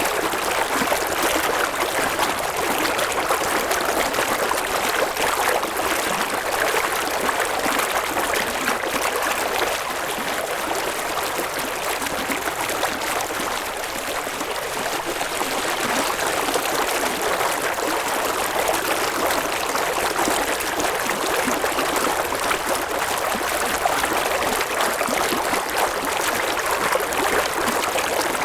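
A river flowing: a steady rush of babbling, chattering water.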